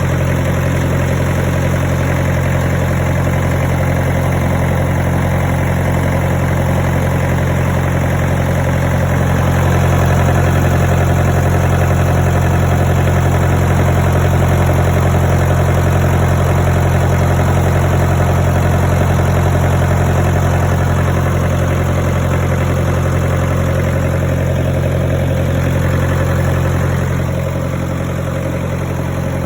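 25 kVA diesel generator set with an inline four-cylinder diesel engine, running steadily at a constant 1500 rpm, the governed speed for 50 Hz output. The steady low engine hum eases slightly near the end.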